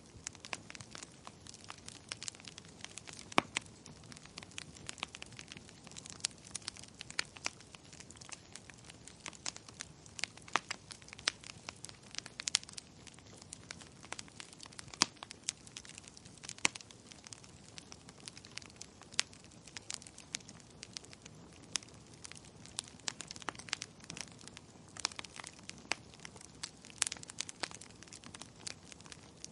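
Wood fire crackling in a fireplace: many sharp, irregular pops and snaps over a steady soft hiss.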